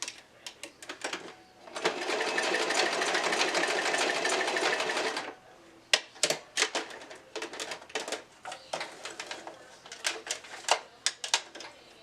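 Sewing machine stitching a hair weft onto a wig cap, running in one continuous burst of about three and a half seconds. Before and after the burst there are irregular sharp clicks and taps.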